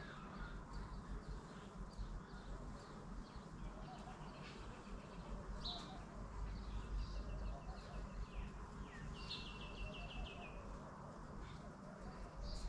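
Small birds chirping in short high calls, with two rapid trills of repeated notes, one about halfway through and one a little later, over a steady low rumble.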